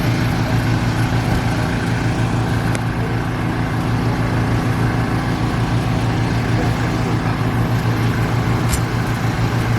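Vehicle engine idling steadily, with an even low drone that does not rise or fall.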